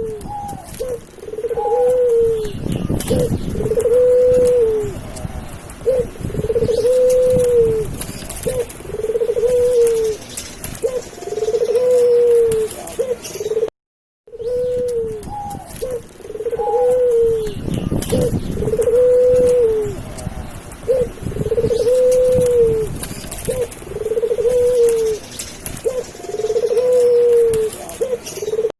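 Captive doves and pigeons cooing: a repeated arched coo about every two seconds, each led by a short higher note, with a low rumble under some of the calls. The sound cuts out for a moment about halfway, then the same run of coos repeats.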